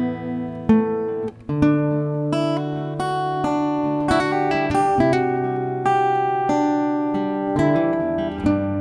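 Instrumental music: a guitar playing a picked and strummed melody over held chords, with new notes coming every half second or so.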